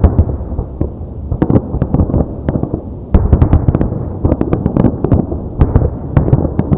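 Fireworks show: a rapid barrage of firework shells bursting, many sharp bangs over a continuous echoing rumble, growing denser about three seconds in.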